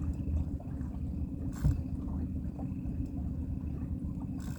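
Boat engine running steadily with a low drone, with one short knock about a second and a half in.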